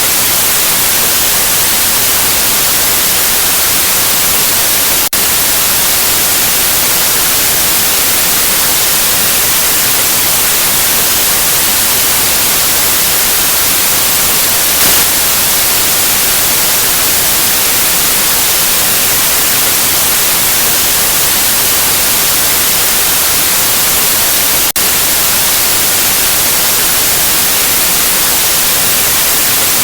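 Steady white noise: an even, hissing static with most of its energy in the high end. It dips very briefly twice, about five seconds in and near the end.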